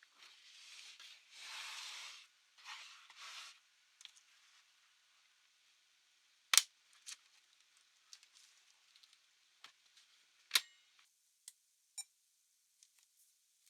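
Handling noises: a soft rustling hiss in the first few seconds, then two sharp clicks about four seconds apart, with scattered faint ticks between and after them.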